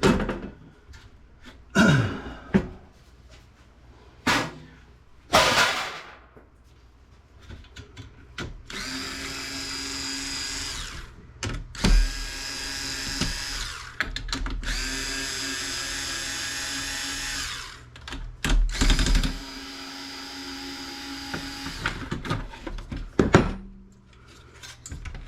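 Cordless drill/driver backing screws out of a desktop computer case in four steady runs of a few seconds each, its motor whining. Knocks and clatter of the case being handled come first, with one more knock near the end.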